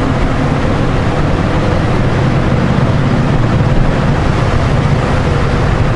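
Honda Gold Wing motorcycle on the move at road speed: a steady rush of wind and road noise over the low drone of the bike's flat-six engine.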